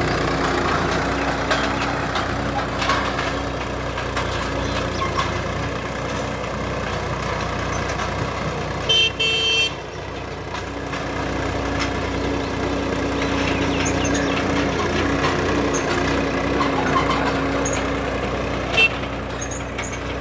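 Swaraj 969 FE tractor's diesel engine running steadily, with a short horn toot about nine seconds in.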